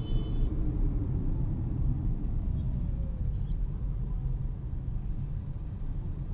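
Hyundai Exter's 1.2-litre Kappa petrol engine and road noise as the car drives, a steady low rumble, with the engine note falling about three seconds in.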